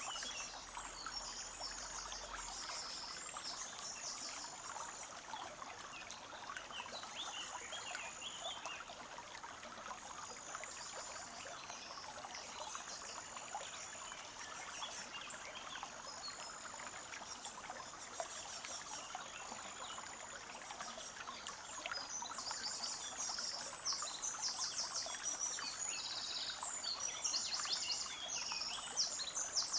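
Forest brook trickling and babbling steadily, with small birds singing high, rapid trills over it. The birdsong grows busier and louder about two-thirds of the way through.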